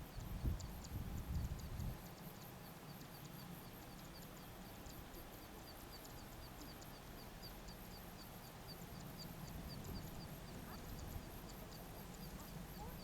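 Wind gusting on the microphone, with a small creature's high chirp repeating evenly about three times a second. The wind gusts hardest in the first two seconds.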